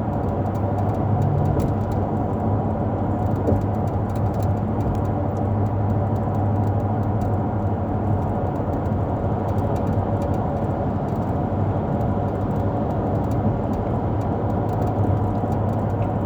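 Motor vehicle on the move, heard from inside: a steady low drone of engine and road noise with no change in pace.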